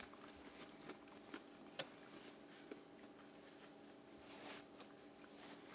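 Faint chewing with the mouth closed: soft wet mouth clicks and smacks now and then, and a brief breathy hiss about four seconds in, over a low steady hum.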